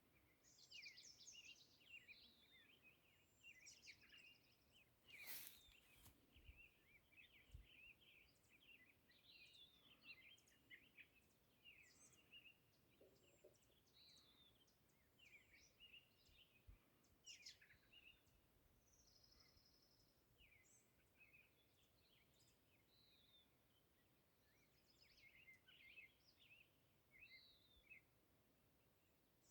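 Faint birdsong: several small birds chirping and trilling on and off, with a single sharp click about five seconds in.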